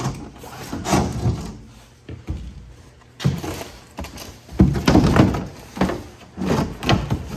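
Wooden wall panel being worked into place against the framing, bumping and knocking several times at irregular intervals.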